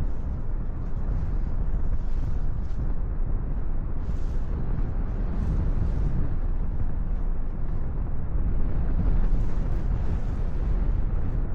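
Wind buffeting the microphone in the airflow of a paraglider in flight: a steady, low rushing roar.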